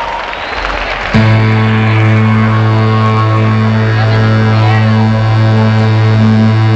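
Live band music heard from the audience on a camcorder microphone: crowd noise trails off, then about a second in a loud, steady deep bass note comes in suddenly with a higher note pulsing on and off above it in an even rhythm.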